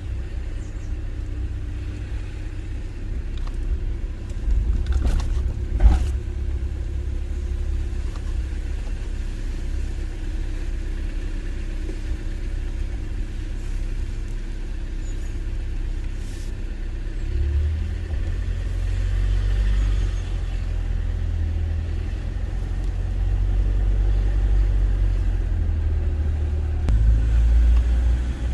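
Steady low rumble with two sharp clicks about five and six seconds in.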